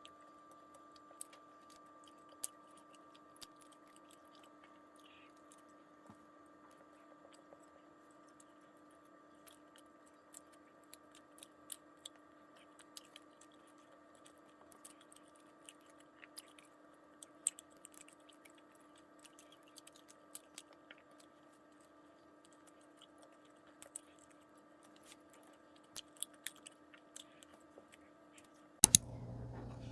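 Close-miked eating of macarons: sparse soft crunches and mouth clicks over a steady hum. Near the end comes a sudden, louder clatter.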